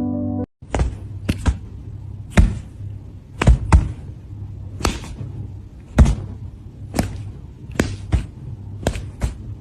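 A series of sharp knocks or taps, irregular, about one or two a second, over a low steady hum.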